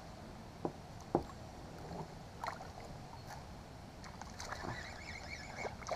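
Water lapping and small knocks against a kayak hull, with two sharper knocks about a second in.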